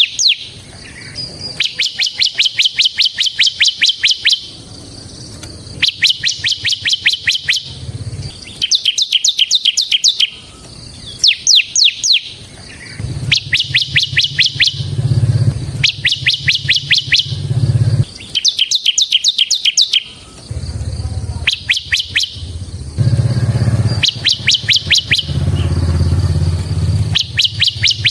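Bar-winged prinia (ciblek) singing in a rapid drilling song: run after run of fast, sharp, high notes, each run lasting one to two seconds with short pauses between. A low rumble sits underneath in the second half.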